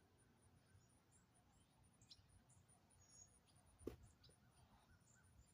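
Near silence, with a faint, fast, even high-pitched pulsing throughout, a few faint short high chirps, and one sharp click a little under four seconds in.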